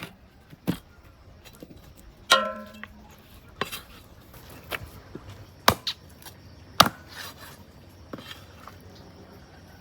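A knife chopping on a wooden board in single, spaced strokes about once a second. About two seconds in comes one ringing metallic clank.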